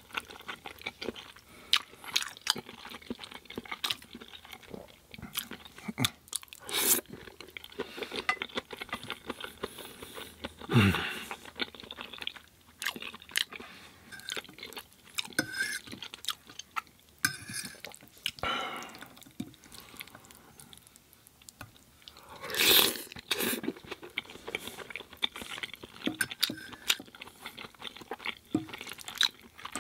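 Close-miked mouth sounds of eating penne pasta in tomato sauce with vegan sausage: wet chewing, lip smacks and small clicks, with a few louder smacks.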